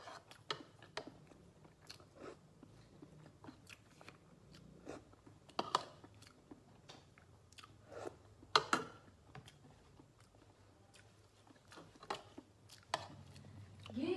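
A person chewing balut, a boiled fertilised duck egg, close to the microphone: soft wet chewing with scattered sharp mouth clicks and crunches, the loudest a little over halfway.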